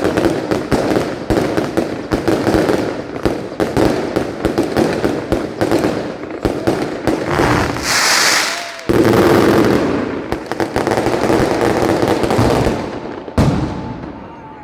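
Nighttime mascletà: a dense, rapid barrage of firecracker bangs going off in quick succession, with a brief high hiss about eight seconds in. Near the end the bangs thin out and die down.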